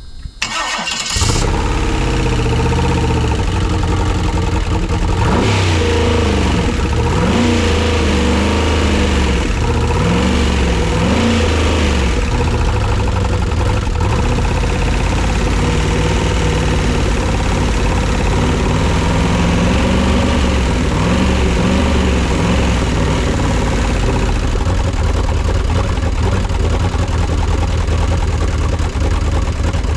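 Chevrolet 6.0-litre L76 aluminum V8 on an engine test stand cranking and catching about a second in, then running with a series of revs up and down between about 5 and 12 seconds and lighter blips of the throttle a little past the middle, settling to a steady idle.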